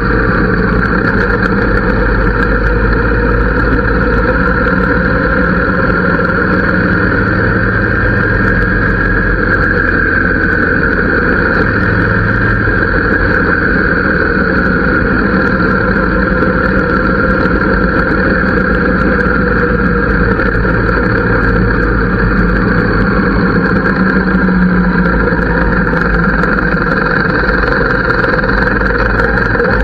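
Harley-Davidson V-twin engine running steadily through its exhaust, with small slow shifts in pitch.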